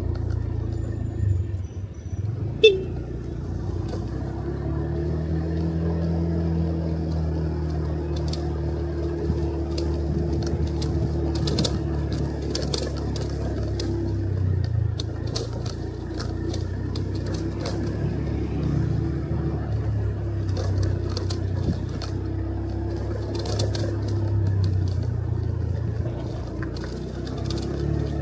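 Motorcycle engine running on the move, its pitch rising and falling a little with the throttle. A single sharp knock about two and a half seconds in is the loudest moment.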